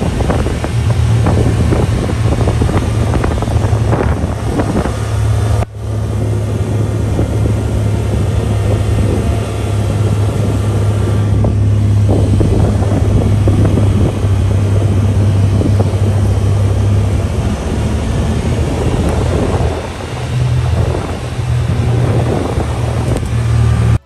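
Honda Pioneer 1000 side-by-side's engine running steadily on the trail, with wind buffeting the microphone. The sound drops out for a moment about six seconds in.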